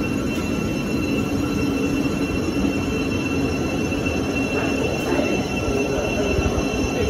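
Thameslink Class 700 electric multiple unit running slowly past along the platform: a steady rumble of wheels on the track under a constant high-pitched whine.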